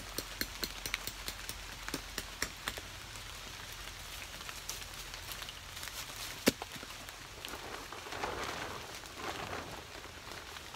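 Rain falling, with scattered sharp drip ticks over a steady hiss and one louder tick about six and a half seconds in. A rustling rises briefly about eight seconds in.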